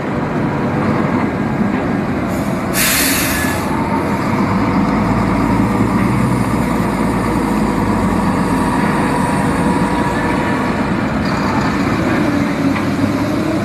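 Heavily loaded truck engine running steadily under load, with a short loud hiss about three seconds in.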